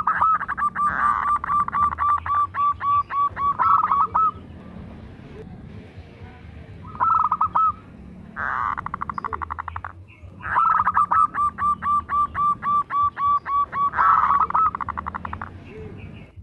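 Zebra dove cooing in long phrases of rapid staccato coo notes, about five a second. There are two main bouts, with a short burst and a faster rattling run between them.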